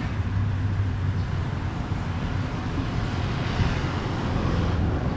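Street traffic under a steady low rumble, with a vehicle passing by around the middle.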